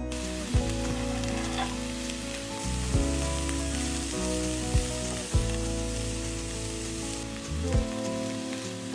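Diced onion frying in a nonstick pan: a steady sizzle as it is stirred with a wooden spatula, with a few sharp knocks, over background music.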